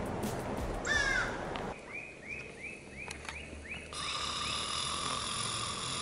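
Bird calls: a loud downslurred call about a second in, then a quick run of short repeated notes, with music underneath. A steady held tone starts abruptly about two-thirds of the way through.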